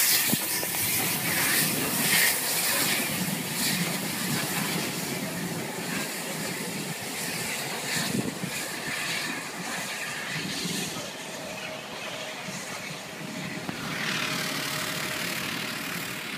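Passenger coaches of a steam-hauled train rolling past on the rails, a continuous rumble with irregular clatters. It slowly fades as the train draws away.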